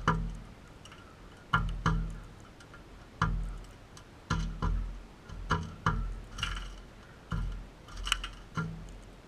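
Background music of plucked guitar notes, struck in pairs and groups about once a second, each note dying away.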